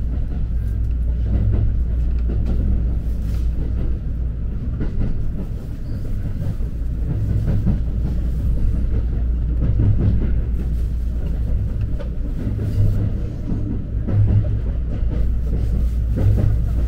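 Inside the carriage of an electric passenger train under way: a steady low rumble of the wheels on the rails.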